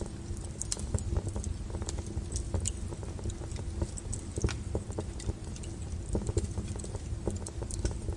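Wood fire burning: irregular crackles and pops over a steady low rumble.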